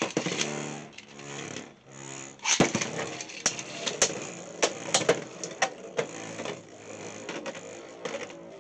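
Two Beyblade X tops launched into a plastic stadium: a whirring spin for the first two seconds or so, then a run of sharp clacks as the tops strike each other and the stadium.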